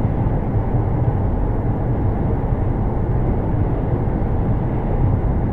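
Steady low rumble of a moving car: road and engine noise with no change in level and no impact.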